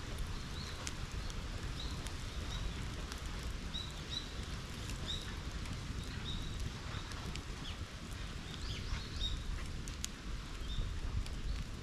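Bonfire burning with a steady low rumble and scattered sharp crackles and pops, while short high chirps repeat through it.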